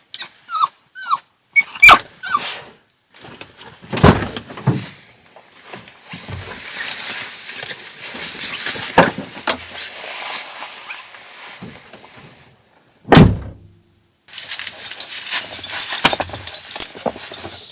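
A series of thuds and knocks with rustling between them, the loudest thud about thirteen seconds in; a few short chirps in the first second.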